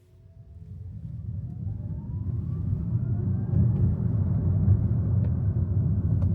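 Kia EV3 electric car pulling away and gathering speed: low tyre and road rumble builds up from near silence over the first two seconds, with a thin electric-motor whine rising in pitch.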